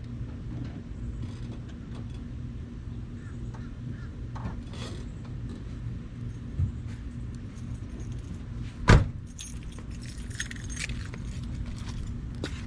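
A single loud knock about nine seconds in, followed by a couple of seconds of keys jangling, over a steady low hum.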